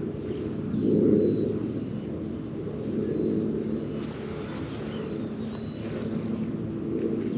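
Small birds chirping: short, high notes repeated about once or twice a second, over a steady low rumble.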